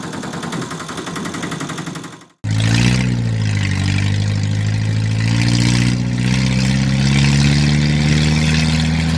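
Engine running: first a fast, even rattle that cuts off abruptly about two and a half seconds in, then a steadier, deeper engine drone that dips briefly and then slowly rises in pitch, as if revving up gradually.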